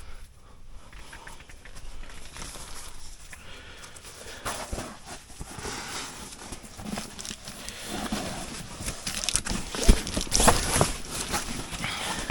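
Rustling with many scattered knocks and clicks, growing busier and louder in the second half, with the sharpest knocks near the end.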